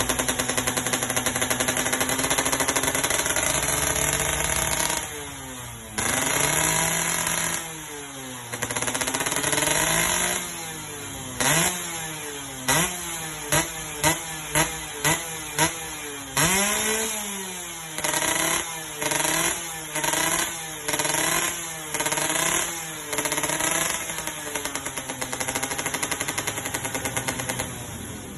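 Yamaha F1ZR two-stroke moped engine breathing through an SR ONE aftermarket exhaust with an aluminium silencer, idling and then revved: a few long revs that rise and fall, then a run of short quick throttle blips about one a second, settling back to idle near the end.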